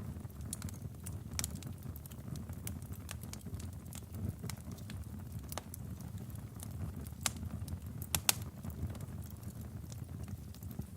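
Logs burning in a fireplace: a low steady rumble of flame with scattered sharp crackles and pops, the loudest two close together about eight seconds in.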